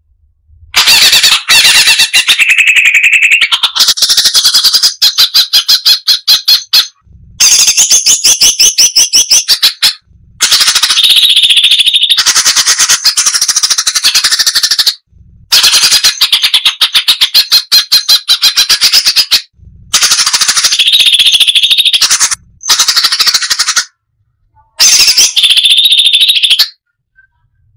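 Brown-breasted bulbul (cucak cungkok) singing loudly in repeated phrases of rapid, harsh chattering notes, each phrase a few seconds long with short pauses between.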